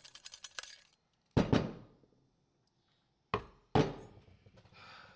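Sharp hard knocks and clinks of small lantern parts being handled or tapped: four in all, in two pairs about two seconds apart, each ringing briefly. A faint quick ticking comes before them.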